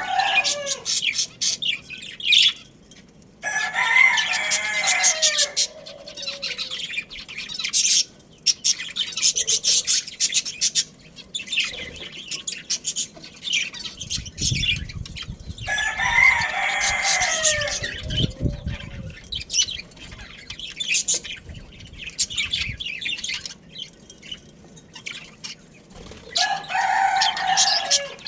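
A rooster crows three times, about every eleven seconds, each a long call that falls in pitch at its end, over a steady chatter of small birds chirping.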